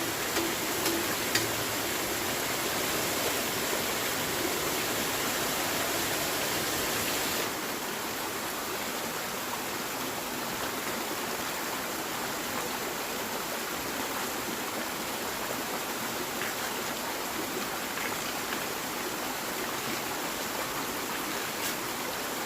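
Steady rushing water noise, even and hiss-like, with a few light clicks in the first second and a half; it drops slightly in level and changes character about seven and a half seconds in.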